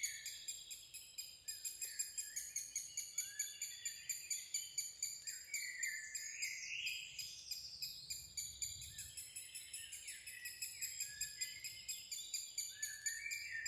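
Outdoor birdsong of rising and falling whistled notes over a fast, steady high-pitched chirping at about four chirps a second.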